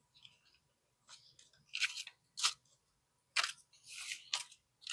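Paper banknotes being handled while counting cash: about five short, crisp rustles and snaps of bills in the second half.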